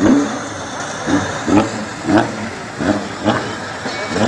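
Drifting car's engine revved in repeated short bursts, about one every half second, each rising sharply in pitch, over a steady rushing noise.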